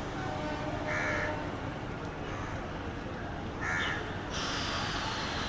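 A bird gives two short, harsh calls about two and a half seconds apart over steady background noise. Near the end a faint high whine starts and slowly falls in pitch.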